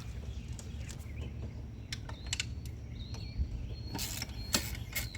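Hand work on engine parts: a few sharp clicks and a thin, squeaky creak as parts are twisted and pulled loose, over a steady low hum.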